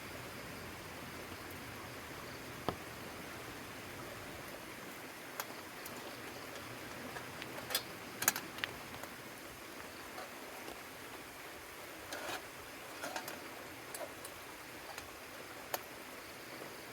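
Steady rain hiss, with a scattered handful of light clicks and taps.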